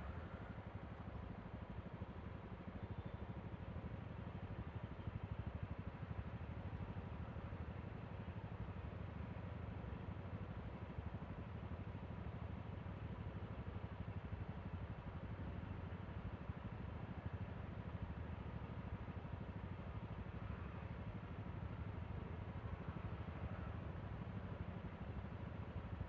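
Yamaha Aerox V3 scooter's 155 cc single-cylinder engine running steadily under way, a low, even rumble mixed with road noise.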